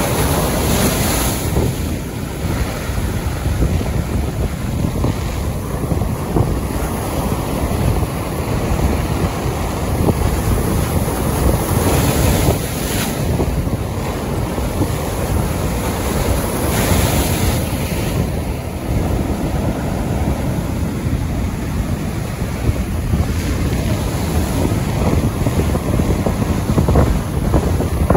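Strong wind buffeting the microphone: a steady rushing roar with a heavy low rumble and several gusts that swell and fade.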